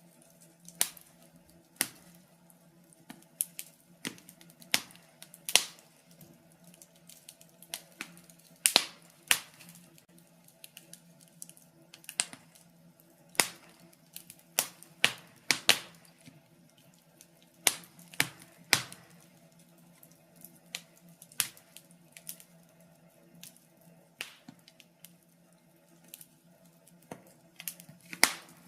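Wood fire crackling: sharp irregular pops and snaps, a few a second, over a faint steady low hum.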